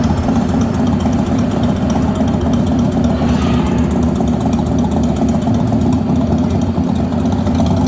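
Steady, loud, low rumble of the ride's motorbike vehicle engine sound, even and unbroken like an idling motorcycle.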